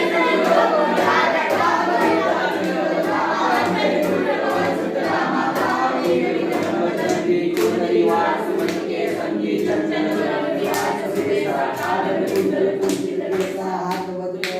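A group of young people singing together in chorus, with rhythmic hand-clapping that grows clearer in the second half.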